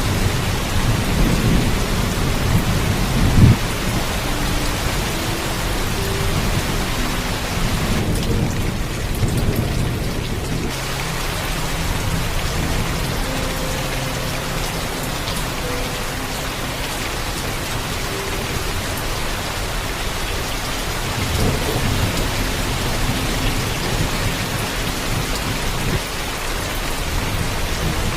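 Heavy, steady rain with thunder rumbling through the first few seconds and peaking about three and a half seconds in, then a second, softer rumble a little past the middle. The rain briefly thins about eight seconds in.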